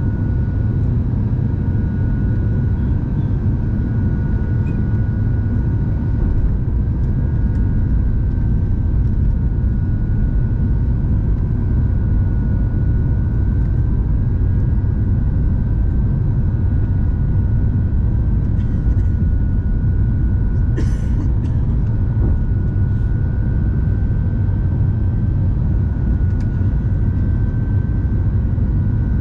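Steady in-flight cabin noise of an Airbus A350-900: a deep, even rumble of airflow and its Rolls-Royce Trent XWB engines, with two faint steady high tones running through it. A single brief click comes about two-thirds of the way in.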